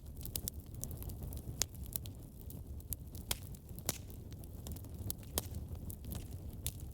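Fireplace fire crackling, with irregular sharp pops over a low steady rumble of the flames.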